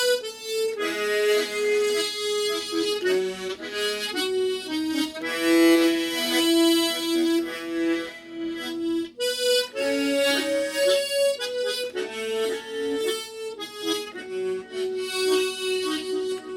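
A harmonica playing a slow melody as single held notes, played plainly. There is a short pause about nine seconds in.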